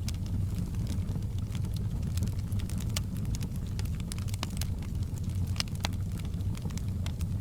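Wood fire burning in a fireplace: a steady low rumble with irregular crackles and pops scattered throughout.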